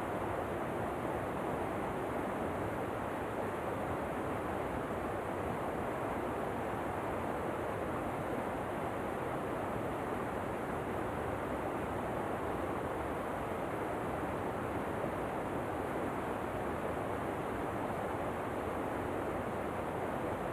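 Steady, even rushing of a waterfall, unchanging throughout.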